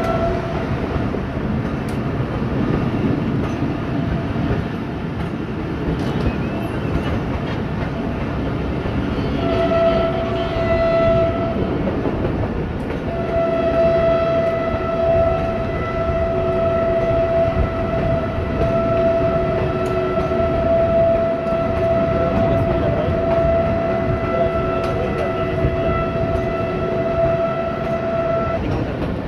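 Passenger train running, a steady rumble with wheels on the rails. A locomotive horn sounds with a steady multi-tone note: a short blast about ten seconds in, then a long one held for about fifteen seconds that stops shortly before the end.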